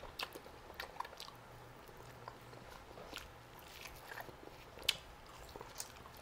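Faint chewing and biting on roast chicken drumstick: soft, wet mouth clicks scattered through, with one sharper click about five seconds in.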